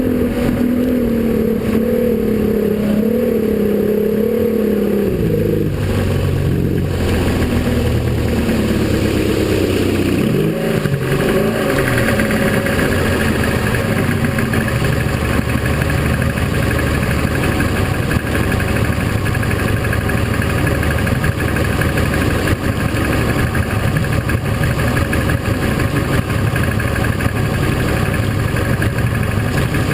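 Powerboat engine running at high revs with a wavering pitch, dropping sharply about five seconds in; after a brief rise and fall in pitch near the ten-second mark it settles into a steady low rumble under a broad rushing noise.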